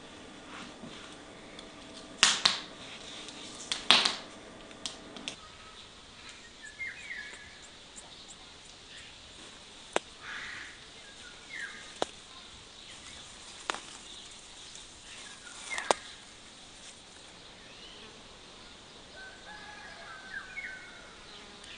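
Wood fire crackling, with sharp isolated pops every couple of seconds, under short chirping bird calls.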